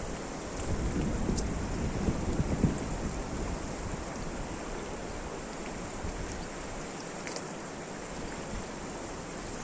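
Steady rain hiss, with a few faint drop ticks and a louder low rumble about one to three seconds in.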